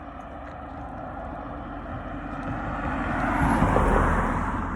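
A car passing by on the road: its tyre and engine noise swells steadily to a peak about four seconds in, then begins to fade.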